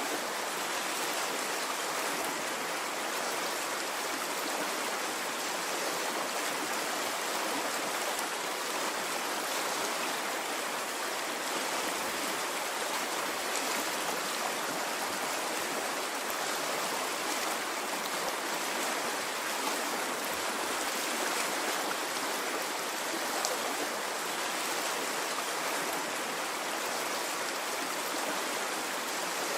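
A flowing stream of water running steadily, an even rushing sound with no swells or breaks.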